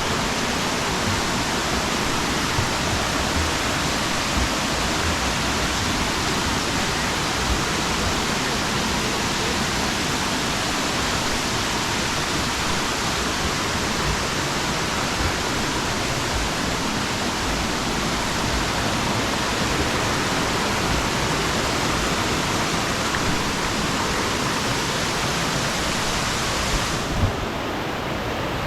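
Waterfall rushing: a steady wash of falling water, its hiss turning duller shortly before the end.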